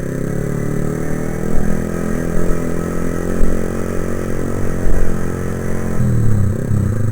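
Motorcycle engine running while riding, with the engine note dipping and then rising again near the end as the rider eases off and opens the throttle.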